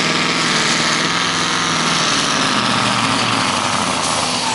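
Scania pulling truck's big diesel engine running hard under load as it drags the weight sled, its pitch sinking about halfway through as the engine is pulled down.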